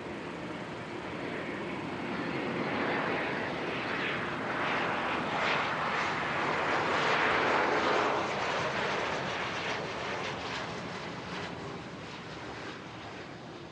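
A jet aircraft passing by, its engine noise swelling to a peak about seven to eight seconds in and then fading away.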